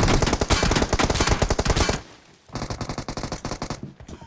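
Video-game automatic gunfire in rapid bursts: a long burst, a short pause about two seconds in, then a second, quieter burst that stops just before the end.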